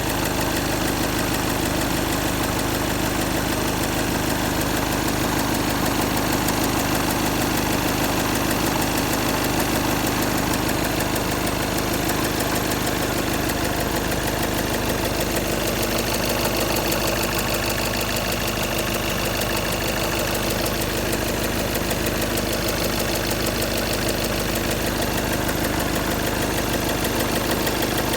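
Škoda Octavia A7 2.0 TDI four-cylinder diesel engine idling steadily with a knock whose cause the owner cannot place.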